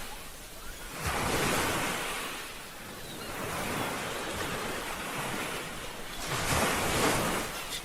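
Ocean surf washing in and out: waves break about a second in and again near the end, with a softer rush of water between them.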